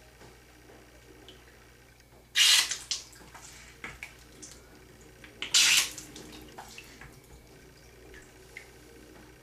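Water squirted into an ear canal to flush out earwax, splashing twice, each squirt about half a second long, about three seconds apart, with smaller drips and splashes between.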